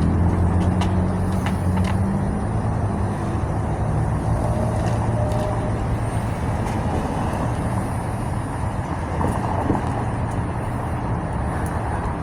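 A large diesel engine idling steadily, its low hum rising slightly in pitch at the start, then holding level.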